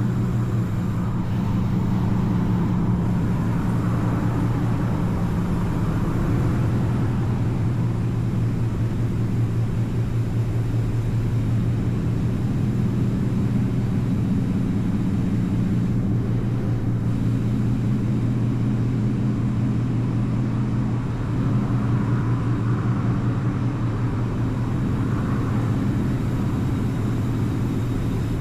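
2025 Mustang GT's 5.0-litre V8 idling steadily, a low even hum, while a rushing sound swells twice.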